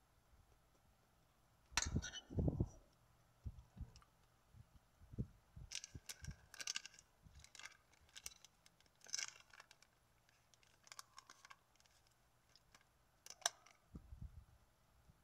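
Close-miked chewing of a mouthful of salad: scattered soft crunches and wet mouth sounds, with two louder low thumps about two seconds in.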